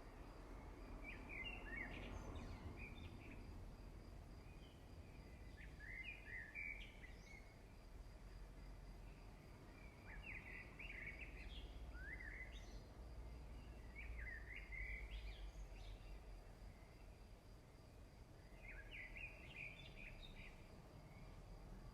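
A songbird singing faintly, short chirping phrases repeated every two to four seconds, over a low steady background rumble.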